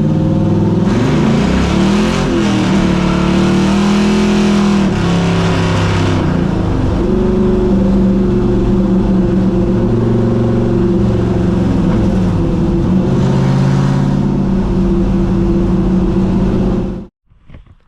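LS V8 engine in a swapped 1950 Pontiac running loud, its pitch rising and falling with revs a couple of times and otherwise holding steady, then cutting off suddenly near the end.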